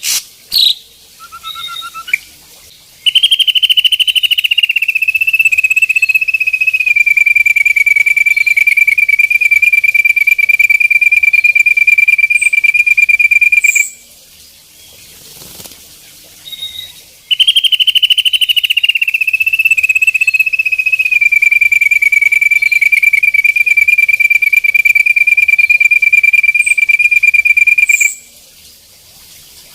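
Ashy drongo (sri gunting abu-abu) giving the rapid trill that bird keepers call its 'tembakan': a fast, even trill that starts a little higher and settles onto one steady high pitch, held about eleven seconds. It comes twice with a short pause between, after a few brief calls at the start.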